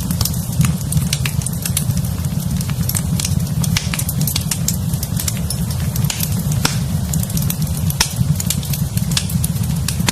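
Fireplace fire burning, with frequent irregular sharp crackles and pops over a steady low rumble.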